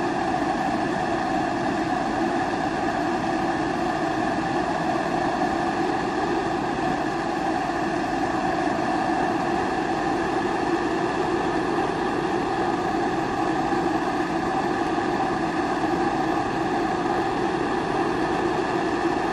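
Kerosene pressure stove (primus) burner running at full flame: a steady rushing sound with a constant hum in it, unchanging throughout.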